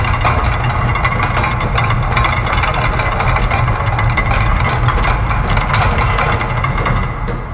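Layered factory machine sounds looped over one another: a dense clatter of rapid clicks and ticks from gears, ratchets and clockwork over a steady low machine hum, forming an uneven polyrhythm. The mix thins out and drops in level near the end.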